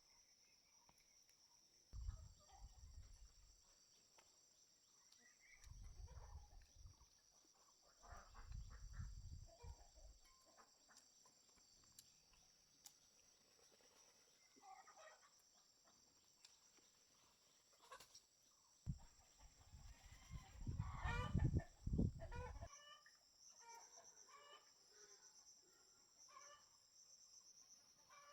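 Chickens clucking, loudest about twenty seconds in, over a steady high chirring of insects. Several low rumbles come and go.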